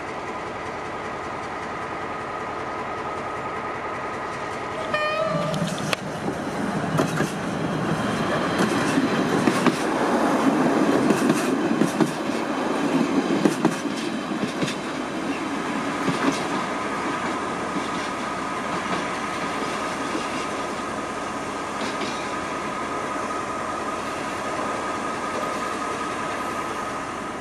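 A diesel multiple unit passenger train passing close by. Its engine and wheels build to a loud rumble with repeated clicking over rail joints from about six to sixteen seconds, after a brief horn note about five seconds in. A steady hum from idling EMD diesel locomotives lies underneath.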